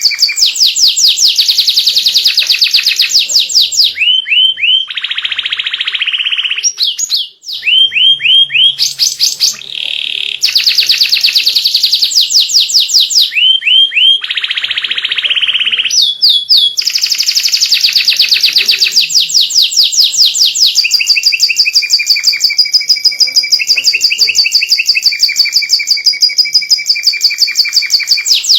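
White domestic canary singing a long, fast song of rapid trills, with repeated notes run together at high speed and a couple of buzzy rolls in the middle.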